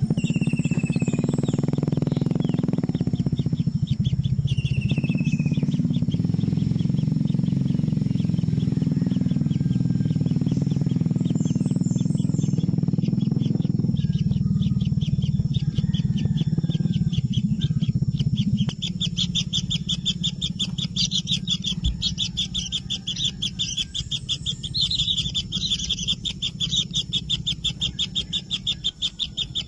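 Kingfisher nestlings making rapid, buzzing, high-pitched begging calls that grow much stronger about two-thirds of the way in. A steady low hum runs underneath.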